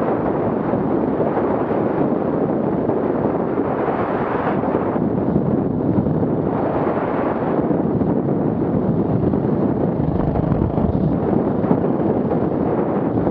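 Wind buffeting the microphone: a steady, dense rumbling noise.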